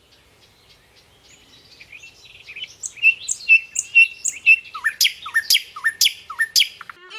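A bird singing a phrase of repeated short, high notes that grows steadily louder, about two notes a second. The later notes each end in a downward slide.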